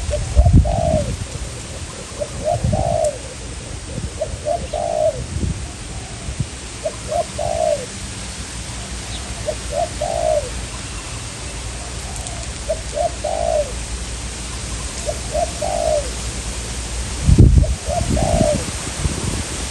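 Spotted doves cooing: a short phrase of a few low coos repeated about every two and a half seconds. Strong wind buffets the microphone in low gusts, the loudest near the end.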